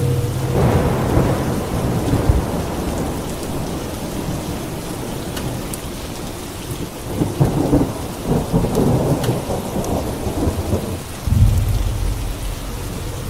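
Steady rain falling through a thunderstorm. Thunder rumbles in about half a second in, cracks and crackles loudly in the second half, and ends in a deep rumble near the end.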